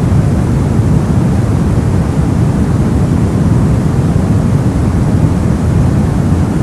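Steady soft white noise, weighted to the low end with little hiss, unchanging throughout.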